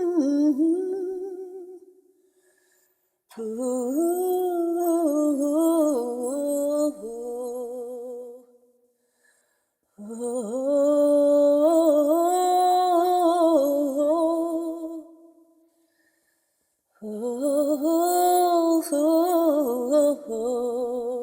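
A voice humming a slow wordless melody with vibrato, in three long phrases separated by short pauses.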